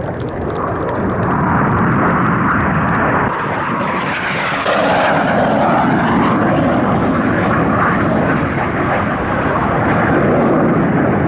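Jet noise from the Red Arrows' BAE Hawk T1 jets flying past, a loud roar that builds over the first couple of seconds and then holds.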